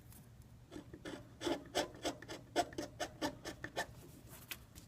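A quick run of about a dozen short scraping strokes against the iPad 2's rear housing, roughly three or four a second, then a few fainter ones near the end.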